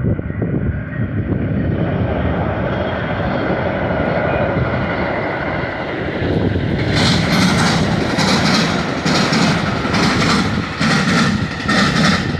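Metra commuter train passing with a loud, steady rumble that grows brighter as it approaches. About halfway through, a regular clatter of wheels over the track begins, about one and a half beats a second.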